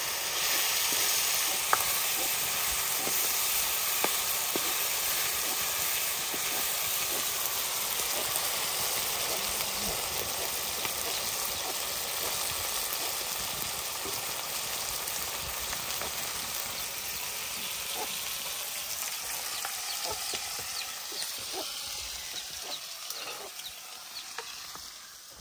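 Chicken pieces sizzling and frying in a metal wok, with a ladle stirring and scraping against the pan in scattered clicks. The sizzle dies down over the last few seconds.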